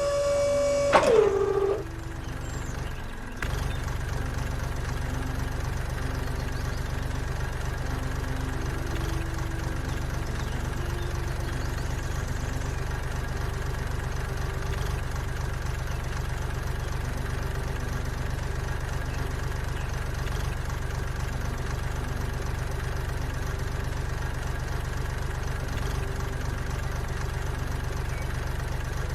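A small motor's steady whine winds down in pitch and stops about a second and a half in. About two seconds later a steady, low engine-like running sound starts, as of an idling tractor engine, and carries on evenly.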